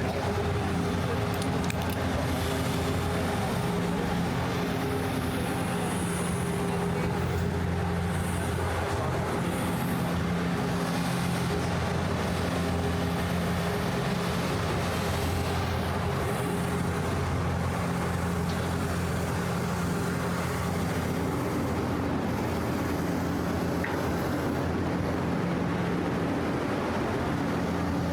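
City street traffic: a steady wash of vehicle noise, with a low steady engine hum underneath that fades in and out.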